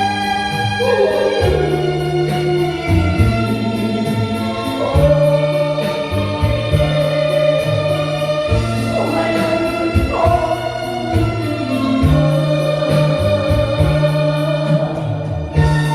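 Amplified song in a pumba show: a sliding, melismatic vocal line over a backing track with a stepping bass line and a steady quick beat.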